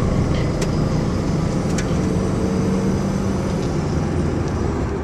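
Subaru WRX's engine running at steady revs while driving, heard from inside the cabin along with road noise.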